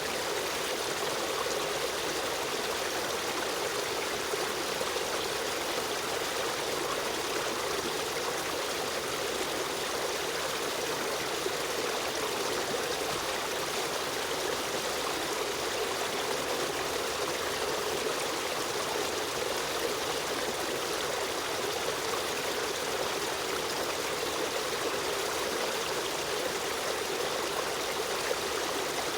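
Running river stream: a steady, even rush of flowing water with trickling.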